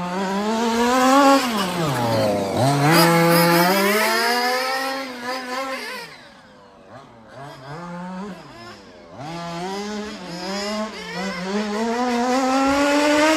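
Small two-stroke petrol engine of a 1/5-scale RC car (Zenoah) being driven, revving up and down with the throttle; the pitch drops sharply about two seconds in, the sound fades as the car moves away around the middle and grows loud again as it comes back.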